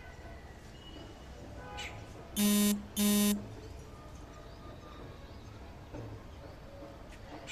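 Two short, loud buzzes about half a second each, a steady low harsh tone, about two and a half and three seconds in. Faint bird chirps are heard around them.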